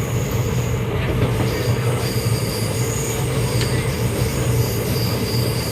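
Moving train running on the rails: a steady low rumble, with thin high-pitched squealing tones coming and going.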